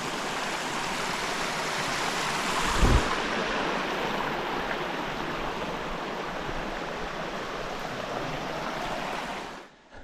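Rushing mountain creek water, a steady hiss, with a brief low thump about three seconds in; the water sound cuts off suddenly just before the end.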